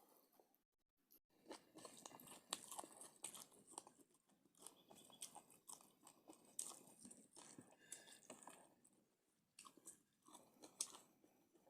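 Close-up chewing and biting of food, with crunchy bites coming in quick, irregular bursts after a short pause about a second in.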